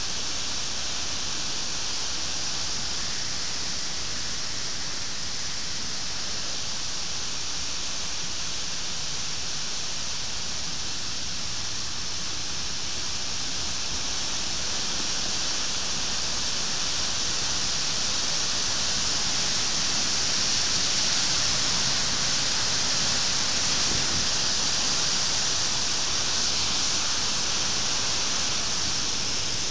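Waterfall pouring: a steady rush of falling water, a little louder in the second half.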